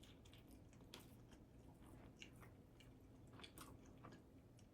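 Faint chewing of a tuna melt, with a few soft, irregularly spaced crunchy clicks.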